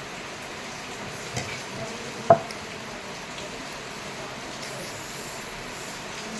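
Steady hiss of rain falling, with a single sharp click a little over two seconds in.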